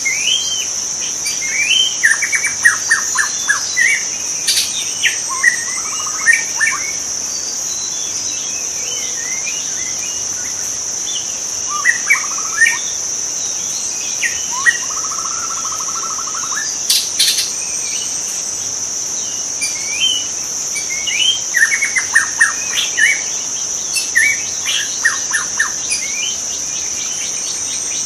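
White-rumped shama singing varied phrases of whistles and rapid trills in bouts with pauses between, over a continuous high-pitched insect drone.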